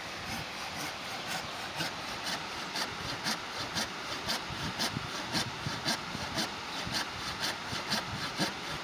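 Rhythmic rasping strokes, evenly spaced at about two a second, over a steady background hiss.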